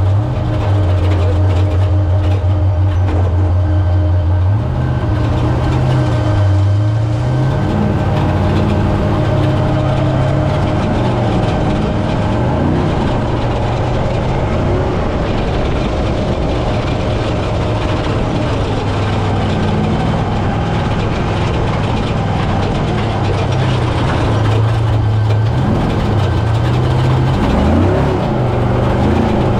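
Brenthel 6100 trophy truck's engine under way: a steady drone for the first few seconds, then rising and falling in pitch again and again as the driver works the throttle.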